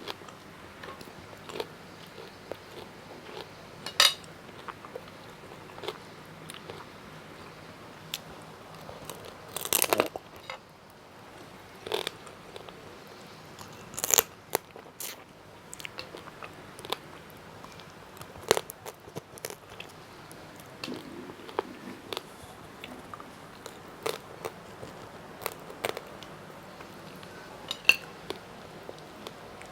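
Close-miked eating: crunchy bites and chewing, with many short sharp crunches and a few much louder ones every several seconds.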